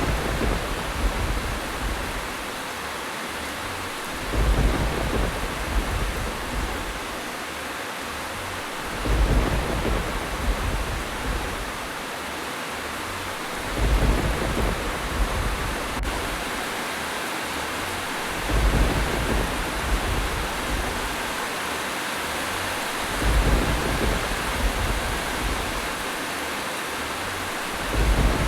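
Steady rain with low rumbles of thunder swelling up at even intervals, about every five seconds.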